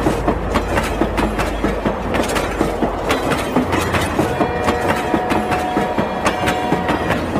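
Battery-powered toy train running along a concrete ledge, its plastic wheels and motor clattering in rapid clicks. A steady high tone is held from about four to six and a half seconds in.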